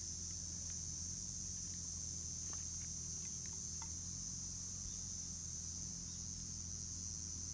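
Steady high-pitched drone of insects, with a few faint scattered clicks a few seconds in.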